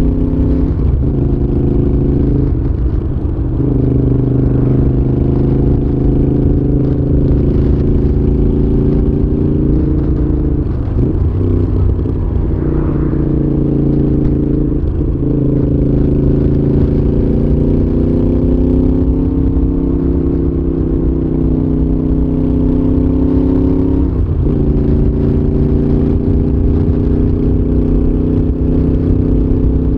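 Moto Guzzi V7's air-cooled V-twin through a Mistral aftermarket exhaust, running under way on the road. The steady engine note drops out briefly about five times and picks up again at a new pitch.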